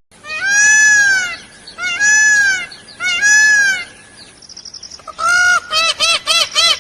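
A bird calling: three long, loud calls that rise and fall in pitch, then, from about five seconds in, a fast run of shorter calls, about three a second.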